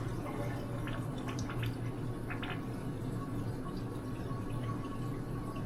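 Toilet water trickling steadily, with a few scattered drips, in a toilet that is failing to flush, which the plumber puts down to a clog.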